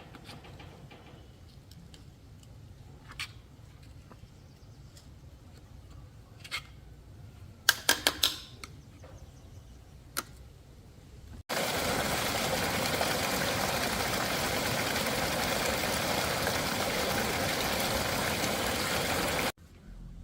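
Scattered light clicks and a quick run of sharp knocks, typical of small tools being handled during a motorcycle repair. Then a loud, steady hiss starts abruptly and stops abruptly about eight seconds later.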